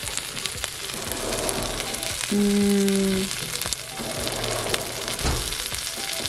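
A tortilla-wrapped burrito sizzling and crackling in a hot nonstick frying pan as it browns. A steady low pitched tone, the loudest sound, sounds for about a second a little after two seconds in.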